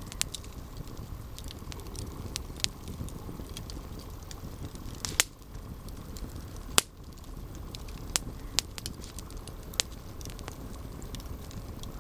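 Campfire burning with a low steady rumble and scattered sharp crackles and pops of burning wood, the two loudest about five and seven seconds in.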